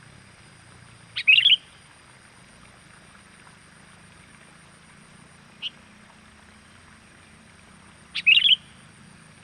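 Sooty-headed bulbul (kutilang) calls played as a lure: two short, loud bursts of quick chattering notes about seven seconds apart, with one faint short note between them.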